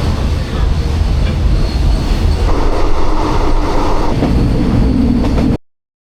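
Passenger train moving along the track, a loud steady rail noise with wheel-on-rail sound, which cuts off abruptly about five and a half seconds in.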